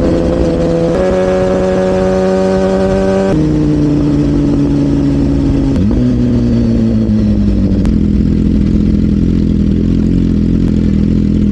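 Motorcycle engine running under way at a steady speed. Its pitch jumps abruptly to a new level several times and slowly falls a little about halfway through.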